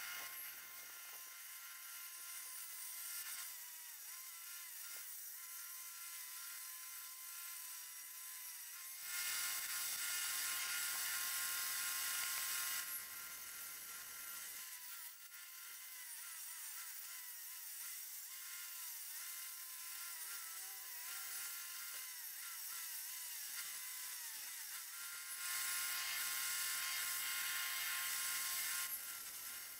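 Circular saw running with a steady whine, its carbide-tipped blade ripping a thin strip lengthwise off a wooden bar. Two louder stretches of cutting noise come about nine seconds in and again about twenty-five seconds in.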